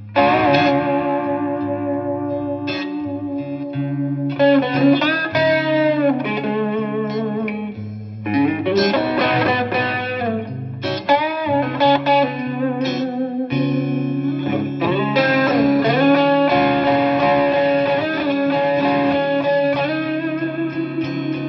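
Donner DST-100L S-type electric guitar played through an amplifier: a melodic lead line of sustained notes with string bends and vibrato.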